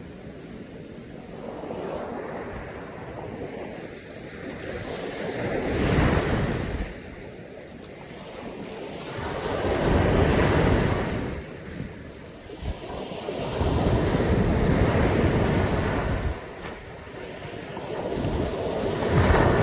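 Caribbean Sea waves breaking on a beach. Each wave surges in and washes back, about every four seconds.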